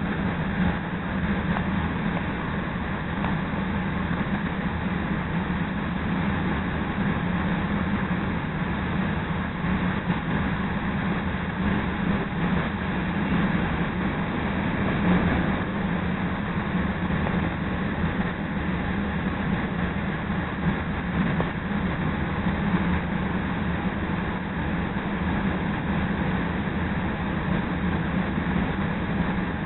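CTA Red Line electric rapid-transit train running along the track, a steady rumble of wheels on rails heard from inside the car. About halfway through, another train passes close alongside.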